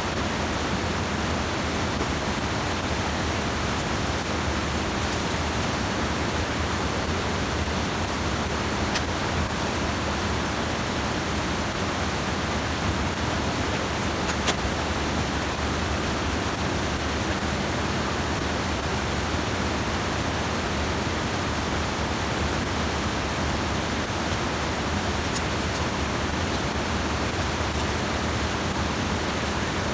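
Steady rush of a stream's water spilling over a small check dam. Two faint clicks stand out, one about midway and one later.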